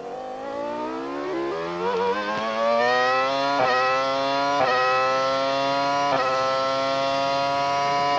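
Formula One car's V10 engine heard onboard, accelerating hard through the gears: the pitch climbs, dips briefly at each of several quick upshifts, and settles into a high, near-steady scream in the second half.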